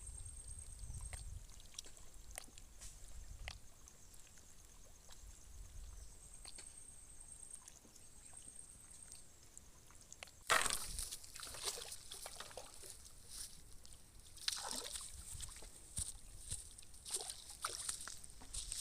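Water splashing and sloshing in repeated bursts, starting suddenly about halfway through; before that, only a few faint clicks and a faint high whine that comes and goes.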